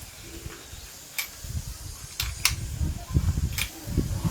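Workbench handling noise: low knocks and rumbles with three sharp clicks, roughly a second apart.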